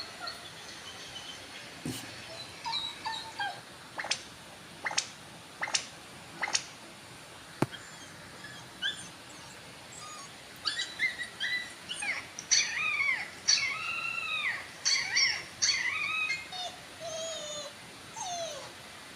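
Puppy whining: a run of high-pitched, rising-and-falling cries, packed most thickly in the second half, after a few sharp clicks earlier on.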